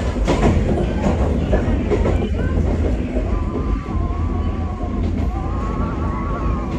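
Wakayama Electric Railway train running along the track, heard from inside the car: a steady low rumble of wheels and running gear, with a faint wavering whine that comes in about three seconds in.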